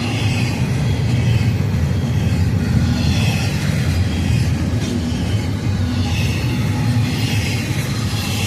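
Union Pacific freight train's cars rolling past at speed: a loud, steady rumble of wheels on rail with a hiss that swells every couple of seconds.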